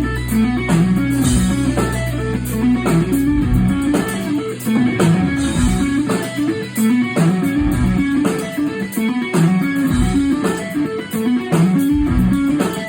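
Live electric guitar playing a fast, repeating picked riff through an amplifier, with a sustained low bass note underneath that drops out about three seconds in.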